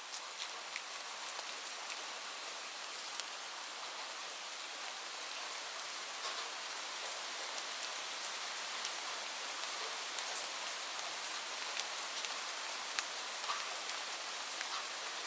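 Steady rain falling, a dense hiss with individual drops ticking sharply on a surface here and there.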